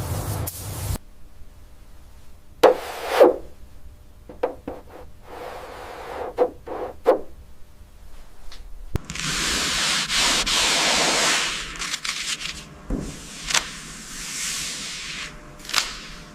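Hand cleaning on a car's body: a few short rubbing strokes, then a longer stretch of steady scrubbing about halfway through, with scattered light clicks.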